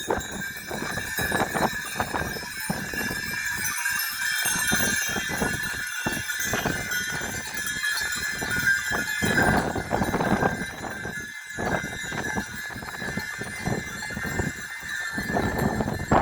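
Sheep moving about, their hooves clattering in irregular knocks, over a steady high-pitched tone.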